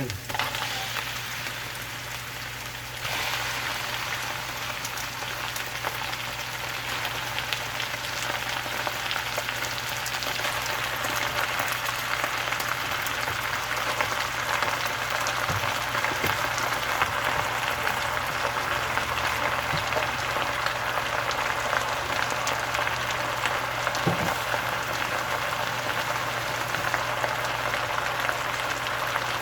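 Chicken pieces frying in a hot pan, a steady sizzle that gets louder about three seconds in.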